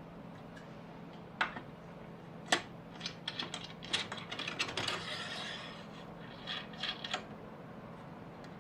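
Router table fittings being handled and installed: a series of sharp clicks and light rattles from about a second and a half in until about seven seconds, with a brief scraping slide in the middle. A faint steady hum runs underneath.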